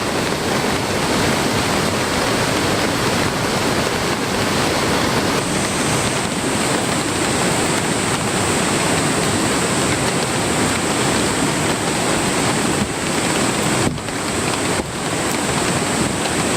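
Steady loud rush of heavy rain and a swollen, fast-flowing mountain stream.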